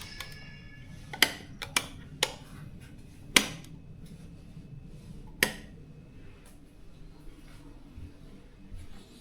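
Wall light switches clicking, about six sharp clicks spread irregularly over several seconds in a small room, the loudest about three seconds in. A brief high ringing tone follows the first click.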